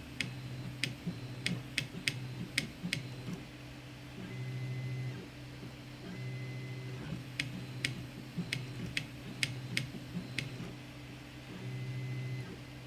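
Zonestar P802M 3D printer at work: stepper motors hum in on-off moves lasting about a second, and twice a quick run of six or seven sharp clicks comes in. The pattern repeats as the print head traces the layer.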